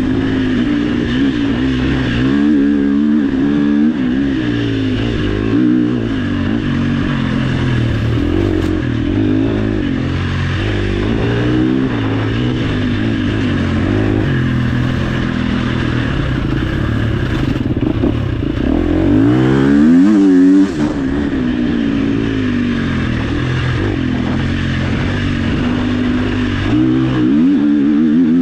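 Dirt bike engine revving up and down repeatedly on an off-road trail, with one long climb in revs about two-thirds of the way through. Clattering and scraping from the rough ground underneath.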